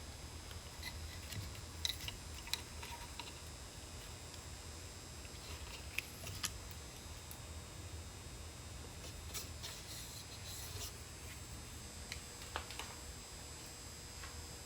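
A few light clicks and taps scattered over a low steady hum and hiss, with no saw running.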